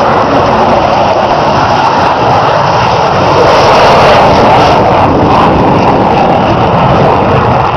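Loud, steady aircraft engine noise that swells slightly about halfway through.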